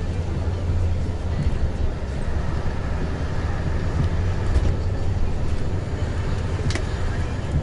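Bus engine and road noise heard from inside a moving bus: a steady low rumble, with a few light clicks or rattles around the middle and near the end.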